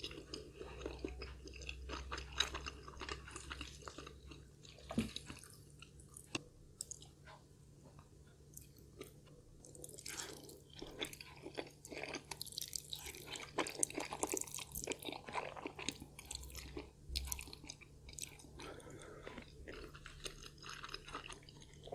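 Close-miked chewing of food, many short wet clicks of the mouth at an irregular pace, busier and louder in the middle of the stretch.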